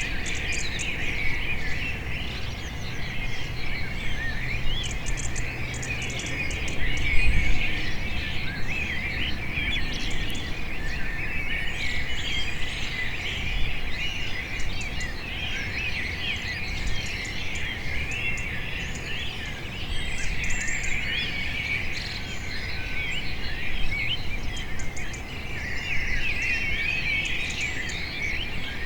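A flock of small birds chirping and twittering all at once, a dense continuous chorus of short overlapping calls, over a steady low background rumble.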